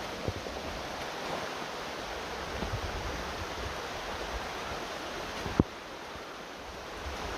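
Steady rushing outdoor ambience, an even hiss with no tones in it, broken by one sharp click about five and a half seconds in.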